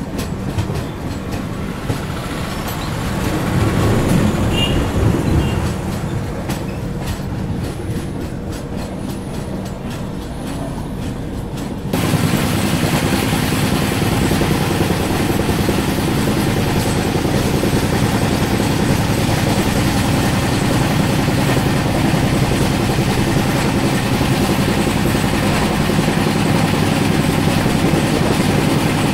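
Passenger express train running at speed, heard from aboard a coach: a steady rumble with rhythmic wheel clatter over the rail joints. About twelve seconds in it jumps abruptly louder and brighter, then holds steady.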